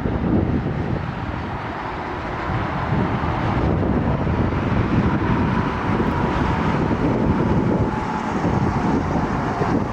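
Interstate traffic passing by, with heavy wind buffeting the microphone. A faint whine comes in about halfway and drops a little in pitch near the end as a vehicle goes past.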